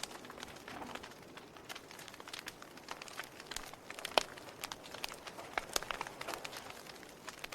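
Wood fire crackling: irregular sharp snaps and pops over a soft hiss, with one louder pop about four seconds in.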